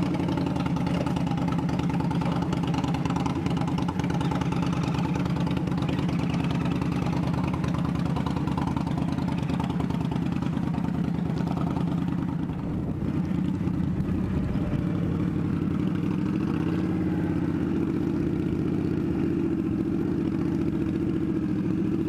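Indian Scout Bobber's V-twin engine idling steadily.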